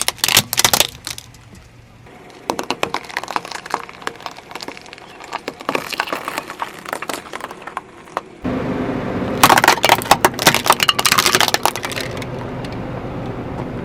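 Brittle objects cracking and snapping under a car tyre being driven over them, in several dense runs of crackles. About eight seconds in, the background suddenly gets louder and steadier, and another loud run of crackling follows.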